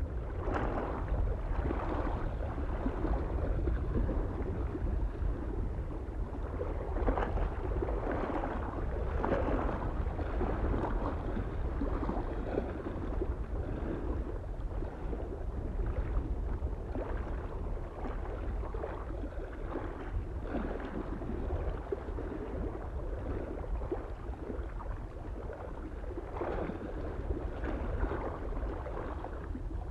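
Small waves lapping and splashing irregularly against a lake shore, over a steady low wind rumble.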